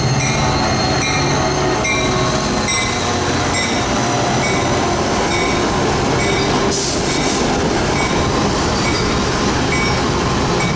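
Metra F40PHM-2 diesel locomotive running as it pulls in past, then bilevel commuter cars rolling by on the rails as the train arrives. A bell dings repeatedly throughout, and a brief hiss comes about seven seconds in.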